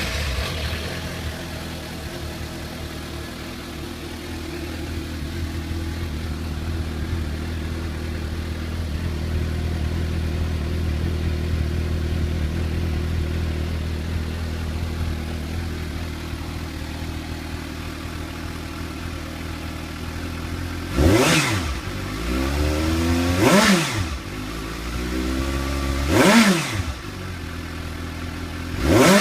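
Suzuki GSR750's inline-four engine idling through its factory stock exhaust, just started. It is then revved and let fall back four times in the last seconds, each blip about two and a half seconds apart. The stock exhaust sounds fairly quiet.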